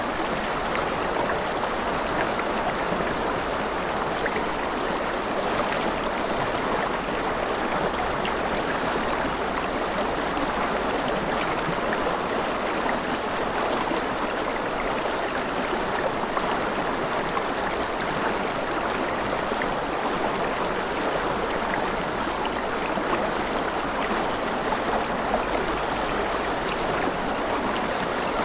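River water flowing and splashing in a steady, even rush with a fine patter of small splashes throughout.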